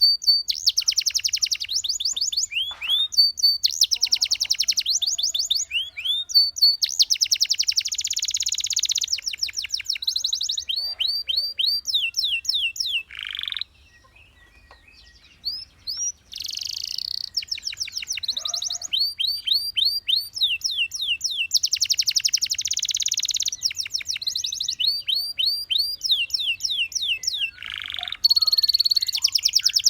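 Domestic canary singing: long runs of rapid trills, each made of one quickly repeated note, changing from one trill to the next. A pause of about two seconds comes near the middle.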